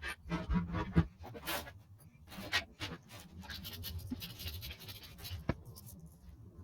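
Hand work on motorcycle engine parts: repeated scraping and rubbing strokes with scattered clicks, and a sharp knock about a second in.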